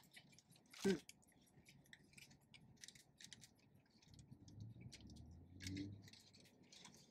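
Faint eating sounds: soft clicks and smacks of people chewing and biting into hot dogs in buns. There is a brief louder sound about a second in and a low soft murmur in the second half.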